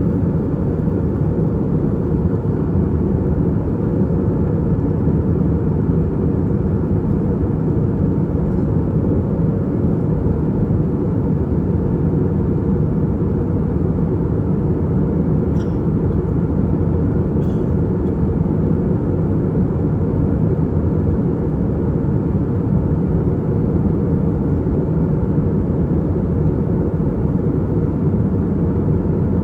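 Steady in-flight cabin noise of an Airbus A320-232, a constant low rumble of its IAE V2500 turbofans and the airflow over the fuselage, heard from a window seat.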